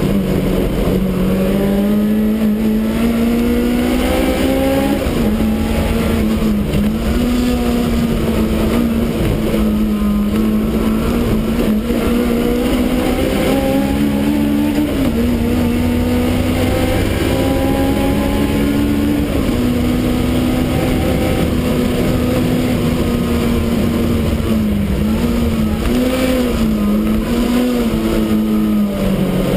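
Supercharged BMW E30 race car's engine running hard, heard from inside its stripped cabin. Its pitch climbs over the first five seconds and drops sharply, then holds fairly level with small steps, wavering up and down a few times near the end.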